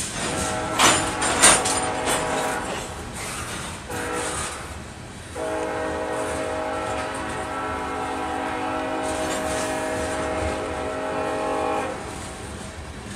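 Diesel locomotive air horn on a passing freight train sounding blasts: a longer blast and a short one, then one long blast of about six seconds that cuts off sharply. Two sharp clanks from the train's wheels and cars come about a second in.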